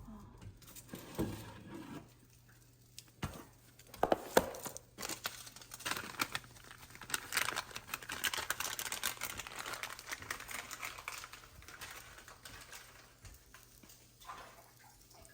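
Dry bay leaves and their plastic packet crinkling and crackling as they are handled, with scattered sharp clicks, busiest through the middle.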